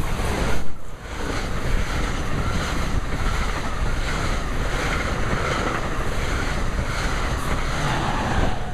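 NJ Transit express train of Multilevel coaches and an ALP-46 electric locomotive passing at speed: a steady rush of wheel and air noise, with wind buffeting the microphone.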